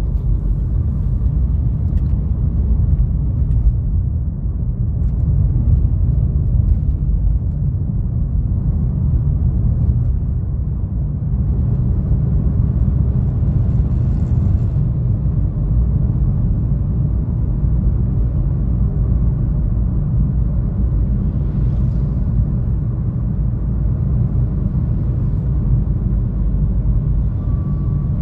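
Steady low rumble of a car driving along a road, with two brief hissing swells, one about halfway through and one later.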